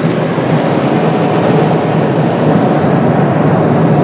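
Steady cabin noise of a Boeing 777-200ER airliner at cruise altitude, an even, deep rushing drone of airflow and engines heard inside the cabin.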